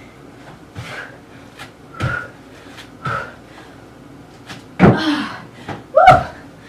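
Hard exhales about once a second, then two loud thuds of feet landing during box jumps, about a second apart. The second thud comes with a short rising grunt.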